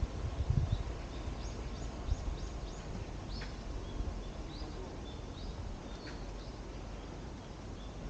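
Small birds chirping: short, high chirps scattered throughout, with a quick run of about five in a row a second or so in, over a steady background hiss. A few low thumps come about half a second in.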